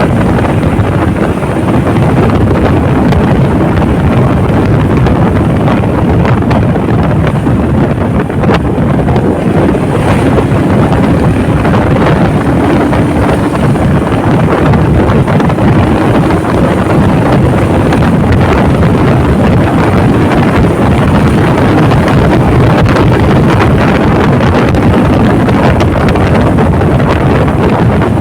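Loud, steady wind rush on the microphone of a moving Honda motorcycle, with engine and road noise beneath it.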